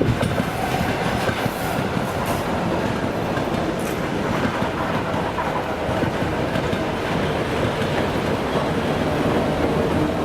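Two-section 2M62U mainline diesel locomotive passing slowly under its own power, its diesel engines running, with the wheels clicking over rail joints. A few sharp clicks stand out in the first few seconds.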